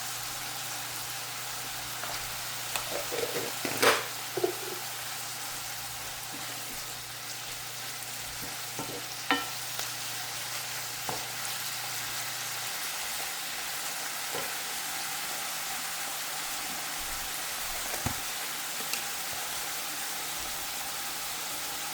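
Oyster mushrooms, onions and ginger-garlic paste sizzling steadily in hot oil in a pan, with a few sharp knocks of a utensil against the pan as it is stirred, a small cluster of them about four seconds in.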